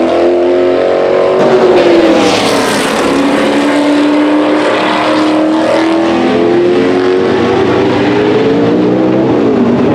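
Vintage race car engines at speed on a circuit. The sound peaks about two seconds in as a car passes close and its pitch drops, then the engine note climbs slowly under acceleration and dips again near the end.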